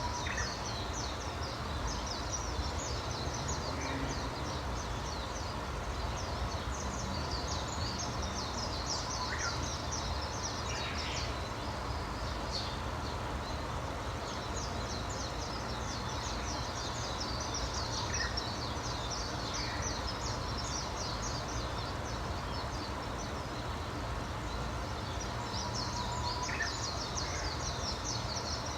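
Birds chirping: a dense chorus of high, rapid chirps that comes and goes in bouts, with a few single lower calls now and then, over a steady low rumble.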